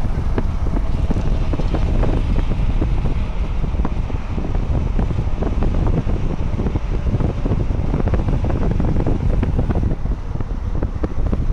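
Strong wind buffeting the microphone over the rumble of a passing double-stack freight train, with many short knocks and clatters throughout.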